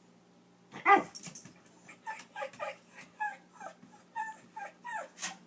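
Pet dog whining and yipping in short, repeated calls, about two to three a second, starting with one loud yelp about a second in: vocal demanding for a toy she wants and can't get.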